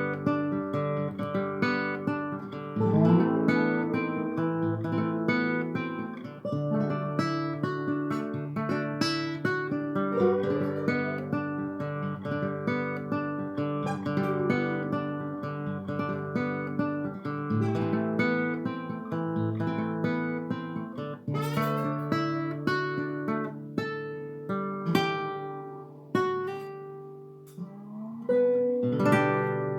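Acoustic guitars playing together with no singing: a lead guitar line with bending, sliding notes over strummed chords.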